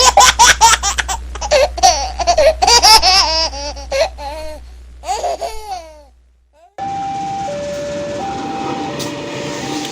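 A baby laughing in quick, choppy bursts over a low steady hum. About seven seconds in it cuts to the steady rushing noise of a train, with a two-note signal tone alternating over it.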